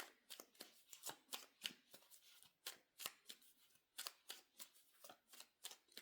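Tarot cards being shuffled by hand: a faint run of soft, crisp card flicks, a few each second.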